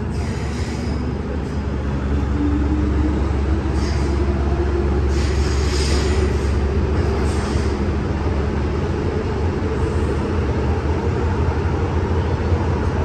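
MTR Island Line M-Train running in the tunnel: a heavy low rumble of wheels and car body, with the traction motor whine slowly rising in pitch as the train gathers speed. A few brief high hissing squeals come from the wheels on the rails.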